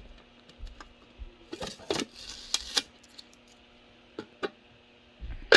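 Packaging and plastic parts of a single-serve coffee maker being handled and pulled off: scattered clicks and taps, a short crinkly rustle about two seconds in, and one sharp, loud click near the end.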